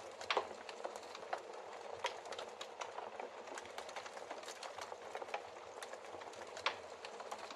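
Wood fire of burning logs crackling: a steady soft hiss with frequent irregular pops and snaps, the loudest pop about half a second in and another sharp one near the end.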